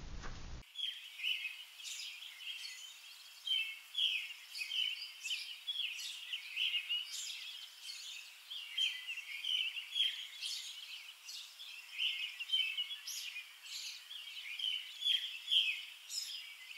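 Several songbirds chirping and singing, with many short calls overlapping without a break.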